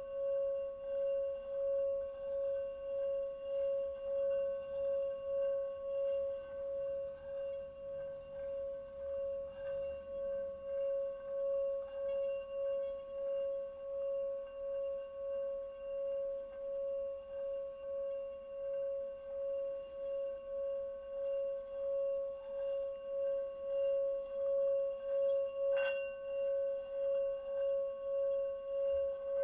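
A singing bowl held sounding continuously: one steady ringing tone with fainter overtones above it, its loudness wavering evenly throughout. A brief light click comes near the end.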